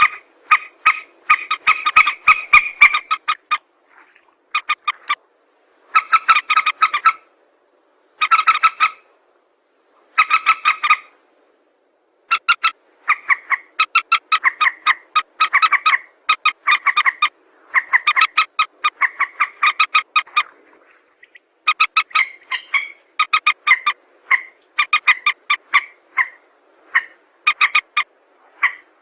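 Mandar (rail) lure call: bouts of rapid, evenly repeated clucking notes, each bout about a second long, following one another with short pauses.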